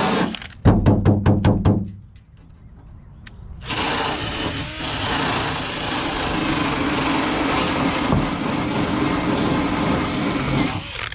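Angle grinder grinding rust off car body metal. It stops just after the start, a quick run of rattling clicks follows about a second in, and after a short pause it runs steadily again from about four seconds in, with a high whine, until near the end.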